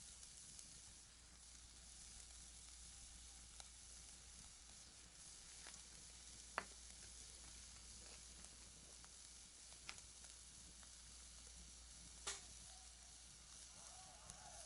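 Faint, steady sizzling hiss broken by about five sharp pops, the loudest about six and a half seconds in: something sizzling and crackling on a handmade fire pit.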